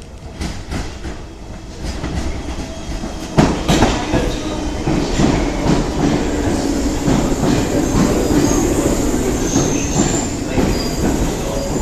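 London Underground C Stock train running past at a platform, its wheels clacking over the rail joints, getting louder about three seconds in, with high-pitched wheel squeal near the end.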